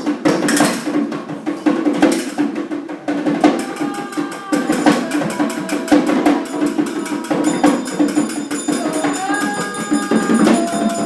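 Hand percussion played in rhythm: wood-block-like clicks and tapping that become a quick, even patter a few seconds in, with a few ringing pitched notes held over a steady low hum.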